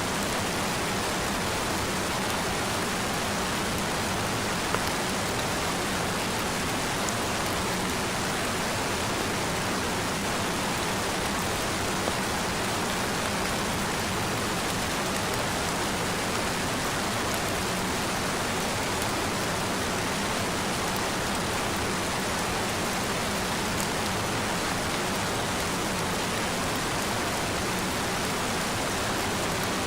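Steady rain: an even, unbroken hiss of rainfall with a few faint sharper drop ticks now and then.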